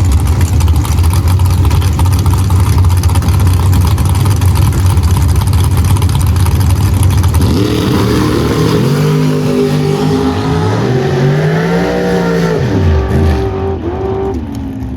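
Drag race cars making a full-throttle pass down the strip: a heavy low engine rumble for the first half, then an engine whose pitch climbs steadily for several seconds and falls away a couple of seconds before the end.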